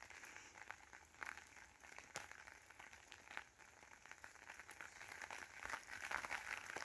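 Near silence: faint outdoor background with scattered light clicks and crackles, a little louder near the end.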